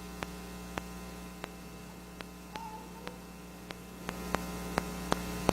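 Steady electrical mains hum with a buzzy stack of overtones, a recording fault, with faint sharp clicks every half second or so.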